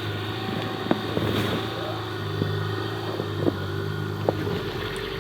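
Car engine running with a steady low hum, with a few light clicks over it.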